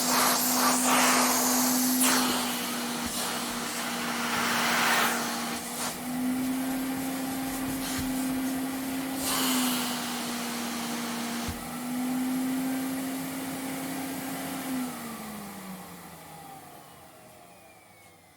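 Vacuum cleaner running with a steady motor hum, its air rush swelling and easing several times. About fifteen seconds in it is switched off, and the motor winds down with a falling pitch, fading away.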